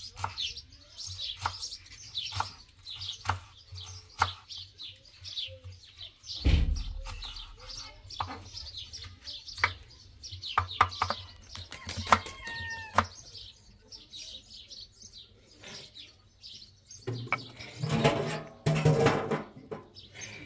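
Small birds chirping in quick, repeated falling notes, with scattered sharp knocks and a low thud about six seconds in. Near the end come two louder bursts of noise.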